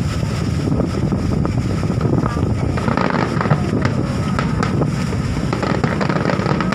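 Aerial fireworks popping and crackling in quick succession, with many short sharp cracks, over a steady low rumble.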